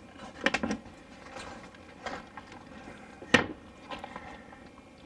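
Rummaging through tools and gear: a few separate knocks and clatters of objects being moved and set down, the sharpest a single knock about three seconds in.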